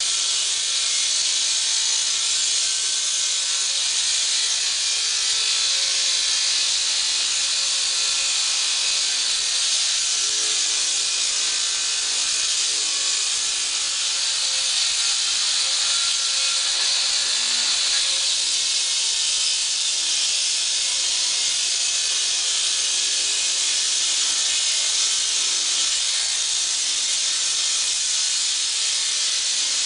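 Handheld concrete cut-off saw cutting into a concrete floor, with a steady, loud, hissing grind that holds unbroken throughout.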